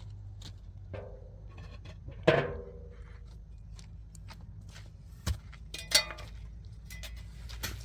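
A few knocks and clinks of hard objects being handled, with two louder ringing strikes about two and six seconds in, over a steady low hum.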